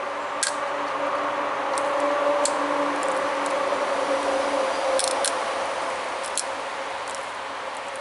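Pressure flaking of tiger chert: a string of sharp, brief clicks, about eight in all, as small flakes are pushed off the edge of a bird point. A steady droning hum runs underneath.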